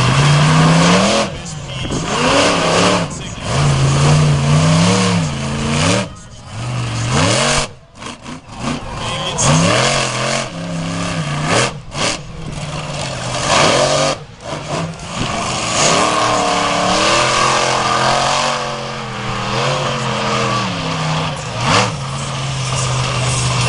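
Monster truck engines revving hard, the pitch climbing and falling over and over, with a few sudden brief dips in level.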